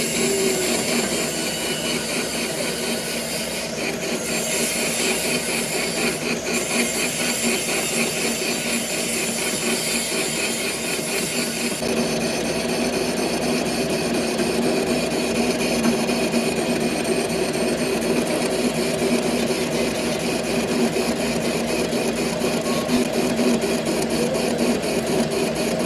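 Metalworking machinery running steadily: a continuous mechanical noise with a low hum and a fast, even pulse. The high hiss eases off about twelve seconds in.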